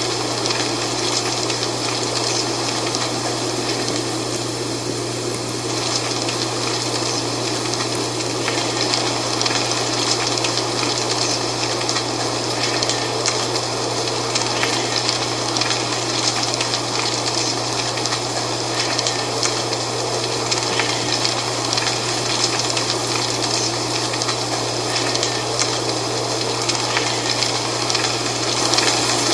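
Dry fall leaves rustling in a steady wind, an even rushing with fine crackling, over a constant low hum.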